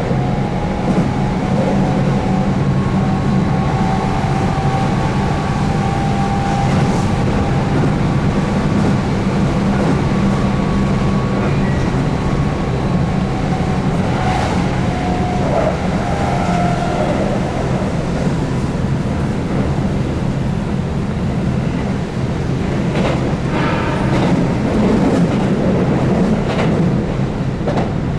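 Keihan 8000 series electric train running at speed, heard from on board: the steady rumble of wheels on rail with the wavering hum of its DC traction motors under field-added excitation control. A few short clicks come near the end.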